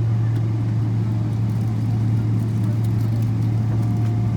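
Airliner's jet engines running, heard from inside the passenger cabin as a loud, steady low drone with a constant deep hum.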